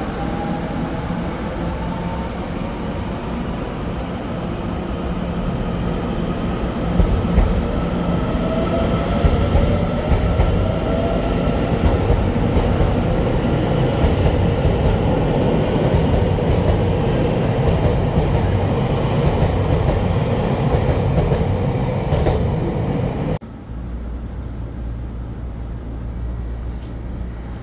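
A train running through a station: steady rumble with a whine rising in pitch, then wheels clicking over rail joints over many seconds. About 23 seconds in the sound cuts off abruptly to a quieter low hum.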